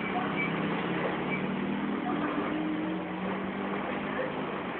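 A steady low engine drone with an even noise behind it.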